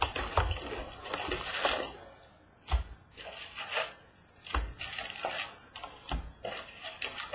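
Rustling and scraping of trading-card packaging being handled and opened, in uneven bursts with a few sharp knocks.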